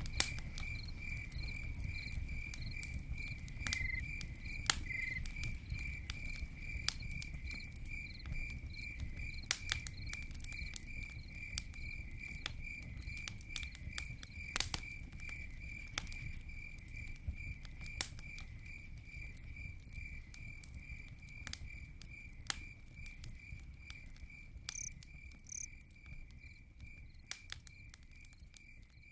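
Campfire crackling, with scattered sharp pops over a low rumble, while a cricket chirps in a steady pulsing rhythm. Everything gradually fades down toward the end.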